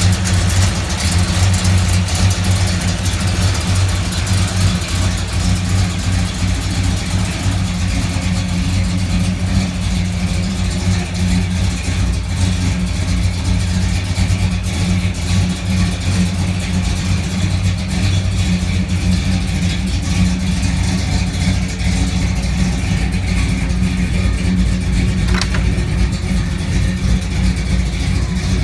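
1955 Chevrolet pickup truck's engine running steadily at an even pitch, a low hum with no clear revs.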